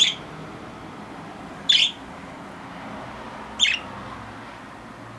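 Budgerigar giving three short, sharp chirps about two seconds apart.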